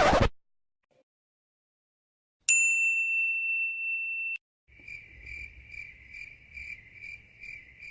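A brief burst of noise cut off at the very start, then a single high ding that rings for about two seconds and stops abruptly. Then crickets chirp in an even pulse, about two or three chirps a second, the stock 'awkward silence' meme effect.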